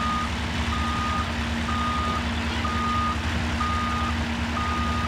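Excavator's travel alarm beeping steadily at one pitch, about one half-second beep each second, over its diesel engine running as it tracks onto the trailer.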